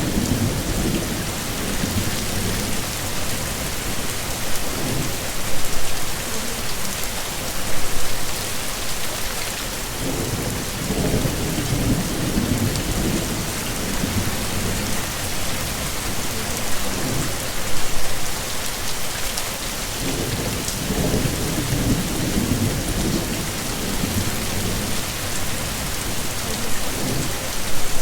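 Heavy rain falling steadily, a dense even hiss, with low rolls of thunder rumbling in several times.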